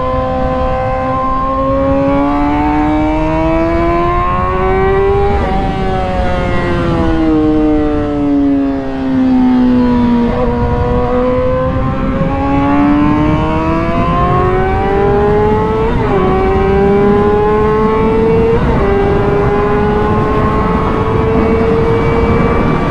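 2008 Honda CBR600RR's inline-four engine at speed on track. It climbs in pitch under throttle, falls away from about five seconds in as the bike slows, then climbs again with two sudden drops in pitch at the gear changes. A steady rush of wind runs underneath.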